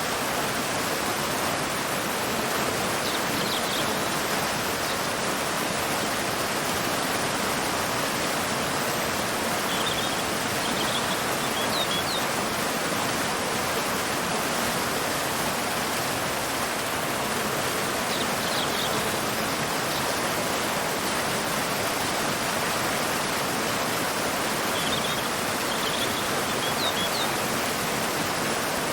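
Waterfall pouring into a river, a steady rushing of water, with short high bird chirps heard a few times over it.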